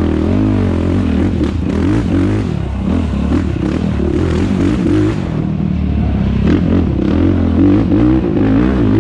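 Yamaha YFZ450R quad's single-cylinder four-stroke engine racing over rough ground, its revs rising and falling again and again under throttle and shifts, with knocks and clatter from the chassis over bumps.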